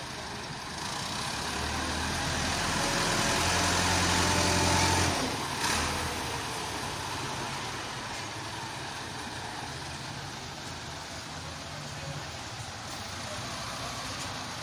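Tractor engine revving up over about four seconds, dropping back sharply about five seconds in, then running steadily at a lower speed.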